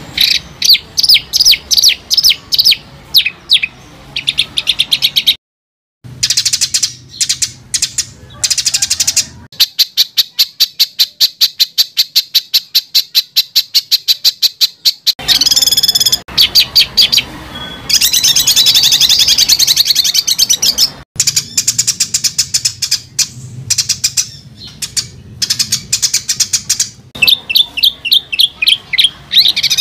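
Songbird song spliced from several recordings: fast trains of sharp, repeated high notes at several per second, broken by harsher, raspy stretches, with abrupt changes between passages and a brief silent gap about five seconds in. This is dense, harsh 'tembakan' song of the kind played to train competition songbirds.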